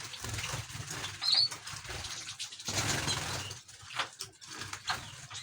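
Small cage birds fluttering their wings, with a short high chirp about a second in and a few light clicks.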